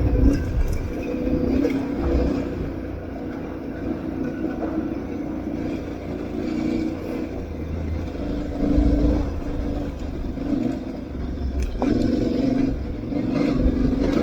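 Aprilia Tuareg 660's parallel-twin engine running while riding, its revs rising and falling, with low wind and terrain rumble and a few brief knocks.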